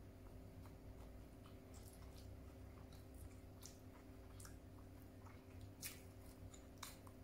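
Faint chewing of fish and rice eaten by hand, with scattered small mouth clicks and squishes, over a faint steady hum.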